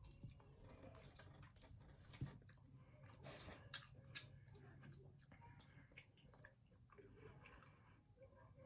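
Faint close-up chewing and biting of chicken wings, soft wet mouth clicks with a brief louder crunch a few seconds in, over a steady low hum.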